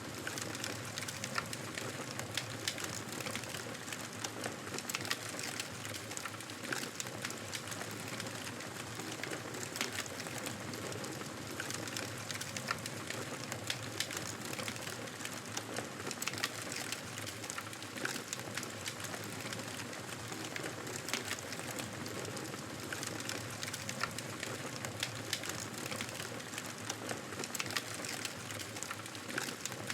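Wood fire crackling in a fireplace: many small irregular pops and snaps over a steady hiss.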